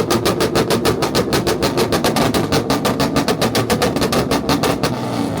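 Honda Prelude engine held on a two-step launch limiter, firing a rapid, even string of pops and bangs at roughly eight a second. It stops about five seconds in.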